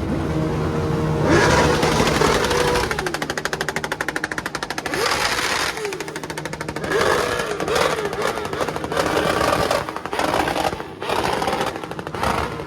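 Motorcycle engines revving again and again, the pitch climbing and dropping with each blip of the throttle, with a fast, even engine pulse between about three and five seconds in.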